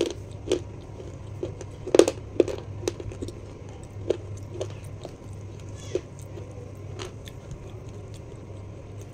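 Close-miked chewing of a crunchy snack, irregular sharp crunches that are loudest in the first couple of seconds and thin out after, over a steady low hum.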